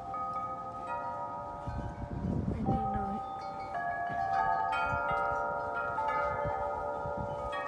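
Wind chimes blown by the wind, several tuned tones struck over and over and ringing on into each other, with a flurry of strikes about halfway through. A brief low rumble comes in about two seconds in.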